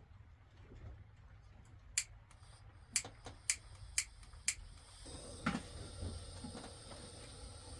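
A run of five sharp clicks or taps, mostly about half a second apart, then a faint steady hiss sets in with a dull knock.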